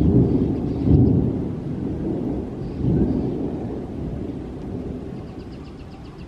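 Thunder rumbling, loudest in the first second or so and then slowly dying away.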